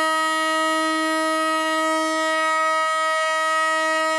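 Train horn sounding one long, steady blast at a single pitch, as the passenger train is sent off on its journey.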